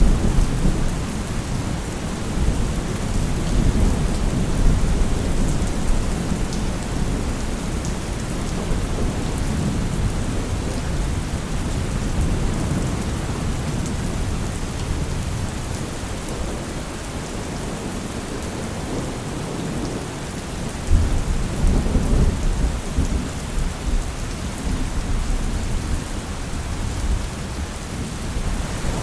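Steady rain falling, with rolling rumbles of thunder. The low rumble is strongest at the start and swells again about two-thirds of the way through.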